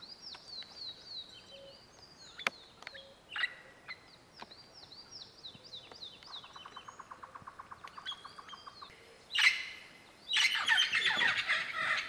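Several birds calling: a run of quick, high, downward-sliding chirps, then a fast rattling trill of about ten notes a second, then loud harsh screeches near the end.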